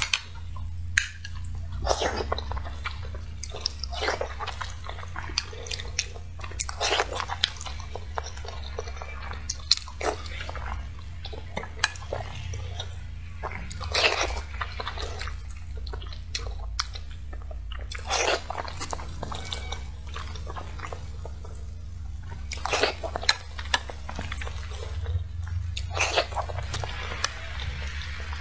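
Close-miked eating sounds of a woman chewing glass noodles and boiled egg taken from a spoon: irregular mouth smacks and chewing clicks over a steady low hum.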